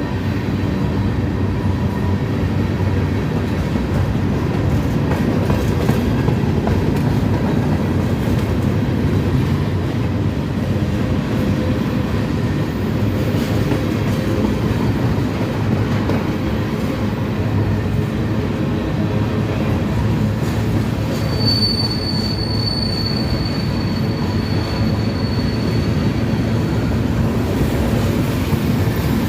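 Train rolling past close by, a steady loud rumble of wheels on the rails. About three-quarters of the way through, a thin high wheel squeal rises over the rumble for about four seconds, then fades.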